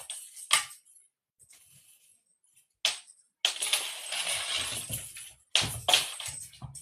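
A cat toy clinking and rattling as a cat bats it about. There are a few sharp clinks, then about two seconds of continuous rattling in the middle, then more clinks near the end.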